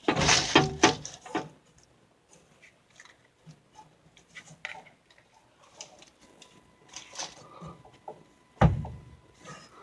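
Handling noises: a quick flurry of clicks and knocks, then scattered small clicks, and one heavy knock near the end.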